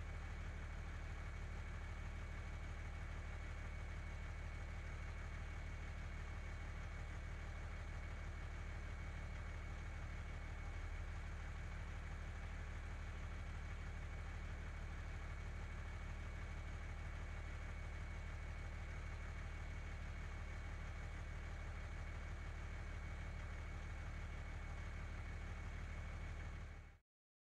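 Vehicle engine running steadily: an even low drone with a faint steady high whine over it, cutting off abruptly near the end.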